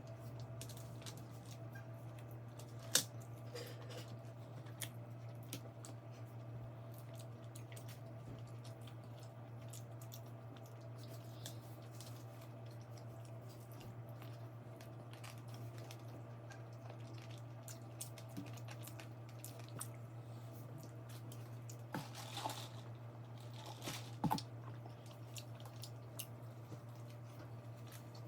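Faint eating sounds, chewing and small clicks and squishes of fried chicken and food being handled, with a louder cluster of crunches or rustles about 22 seconds in, over a steady low hum.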